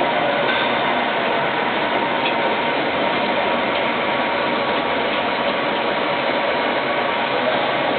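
A 24-head PET bottle rinsing machine running with a steady mechanical noise.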